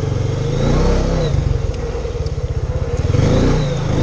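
Honda four-wheeler's (ATV) engine running under way, its revs rising and falling twice as it accelerates and eases off.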